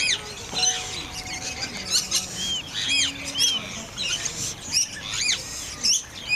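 Birds calling with many short, arched squawks and chirps, several a second, over background music with a few held low notes.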